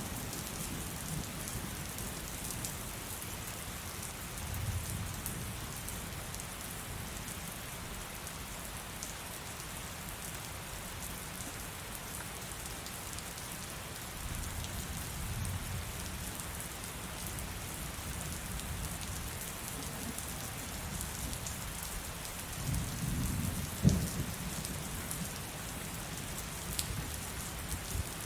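Heavy rain falling steadily, with low rolls of thunder about five seconds in and again near the middle. Near the end a louder rumble ends in a sharp thunderclap.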